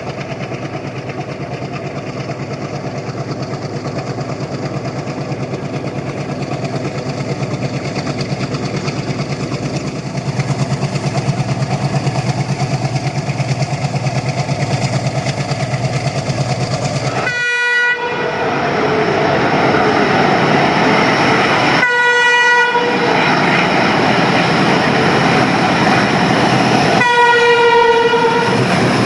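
WDM-3D diesel locomotive's ALCo 251 V16 engine chugging under load as it hauls a train past. From about 17 seconds in, the passing train's running noise gets louder, and the horn sounds three times: at about 17 s, about 22 s, and a longer blast near the end.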